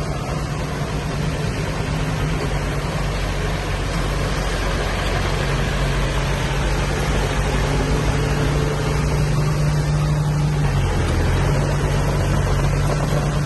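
Diesel engine of heavy earthmoving machinery running steadily with a deep hum, its pitch shifting slightly about ten seconds in.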